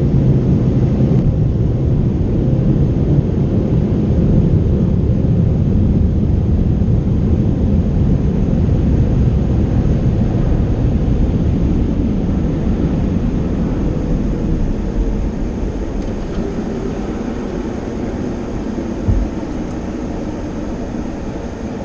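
Automatic car wash equipment running: a loud, steady rumble and rush of air or water that eases off gradually over the last several seconds.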